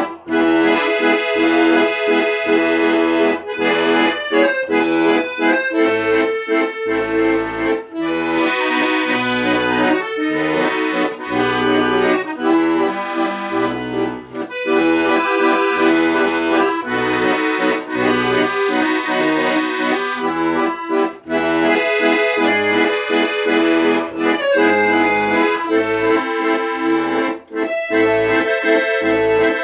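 Accordion music playing a steady, rhythmic tune over a pulsing bass accompaniment, with no singing.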